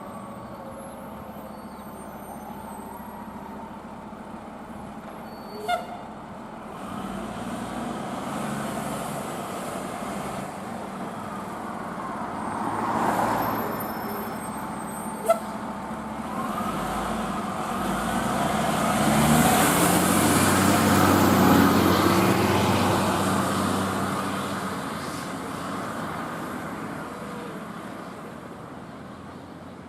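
Heavy diesel fire apparatus driving past. A siren's falling wail trails off at the start, engine and road noise swell up twice, loudest about 19 to 23 seconds in, then fade. Two short sharp clicks stand out, about 6 and 15 seconds in.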